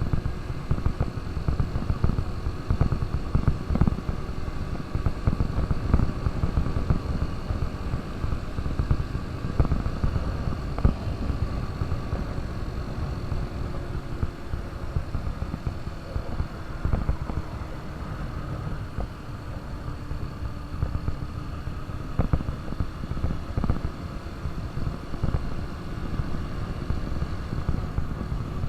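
KTM RC 200's single-cylinder four-stroke engine running on the move under a dense low rumble. The engine note sags a little through the middle and picks back up near the end.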